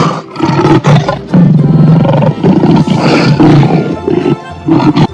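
Lion roaring, a series of several deep, rough roars and grunts in quick succession.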